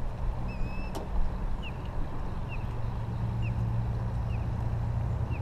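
A motor running with a steady low drone, plausibly a boat's. Over it a bird repeats a short falling chirp about once a second, and a held whistled note and a click come about a second in.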